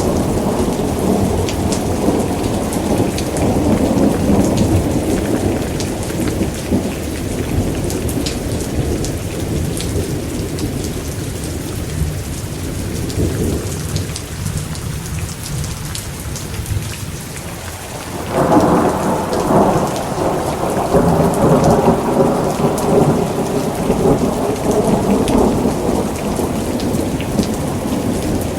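Steady heavy rain with rolling thunder. The rumble dies away over the first half, then a new peal of thunder breaks in sharply a little past the middle and keeps rumbling.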